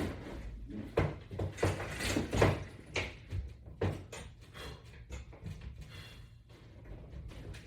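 Irregular knocks and thumps, about six or seven close together in the first four seconds, then fainter.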